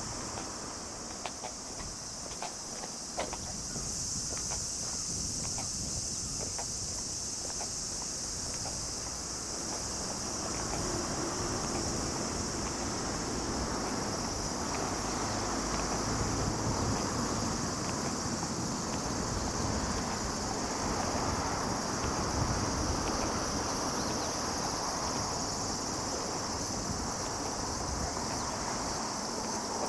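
Steady, high-pitched chorus of many insects, with some wind noise on the microphone underneath.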